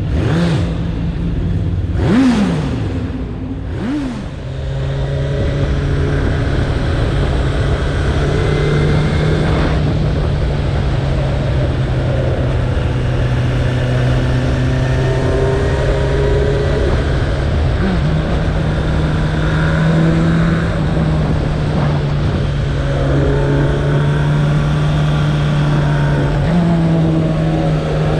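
Suzuki Bandit 1200's inline-four engine accelerating through the gears, its pitch rising quickly and dropping at each shift. It then settles into a steady cruising drone, and the engine speed steps up slightly twice later on.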